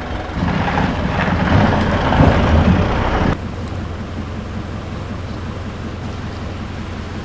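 Vehicle engine running with a steady low hum. A loud rushing noise swells over it about half a second in and cuts off abruptly about three seconds later.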